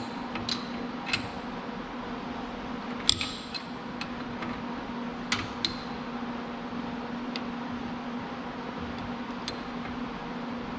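A steady electric hum, with about eight light metallic clicks and clinks scattered through it, the sharpest about three seconds in.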